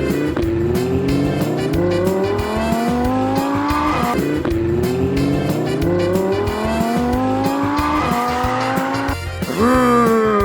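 Race car engine sound effect accelerating through the gears, its pitch climbing steadily and dropping at a shift about four seconds in, then climbing again. Near the end a higher whine sweeps down in pitch, over background music.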